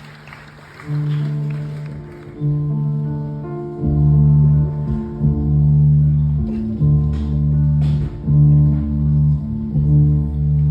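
Instrumental opening of a live song: held chords that change every second or so, joined about four seconds in by a low electric bass line. Faint audience noise dies away in the first seconds.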